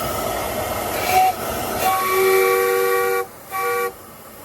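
Steam hissing from a 1/8-scale live-steam Hiawatha locomotive, then its steam whistle sounding a chord of several notes: one long blast about two seconds in, followed by a short toot.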